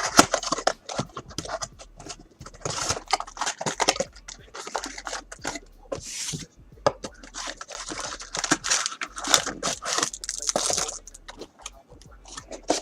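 Packaging of a mini box of trading cards being torn open and crinkled, with scraping and clicking as the cards are handled.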